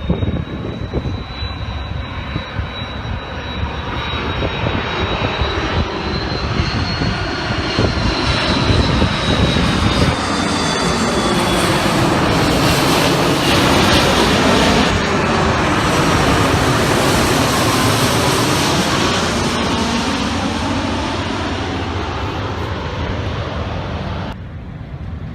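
An aircraft passing overhead: its engine noise grows steadily louder, is loudest about halfway through, then fades away and drops off sharply near the end.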